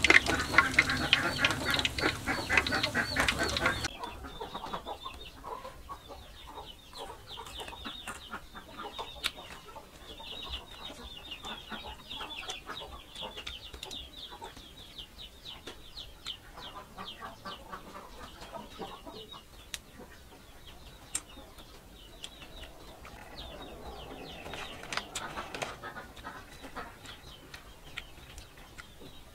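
A loud steady hiss for about the first four seconds, which then cuts off. After that, quieter crunchy chewing of battered fried pork, small crackles and clicks, with chickens clucking in the background.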